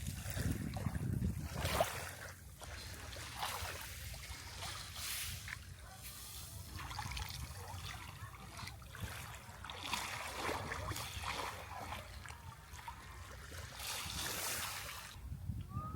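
Water splashing and trickling in repeated surges every second or two, over a low steady rumble.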